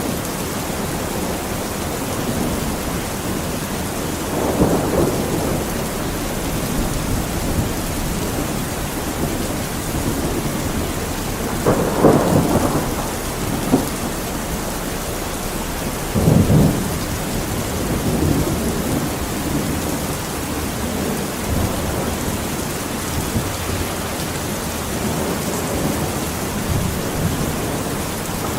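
Steady heavy rain with thunder rumbling a few times, the loudest roll near the middle.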